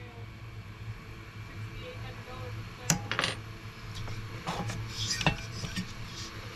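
Sharp metallic clinks and rattles of hand tools and small metal parts being handled while a diesel heater is taken apart. The two loudest clinks come about three and five seconds in, over a low steady hum.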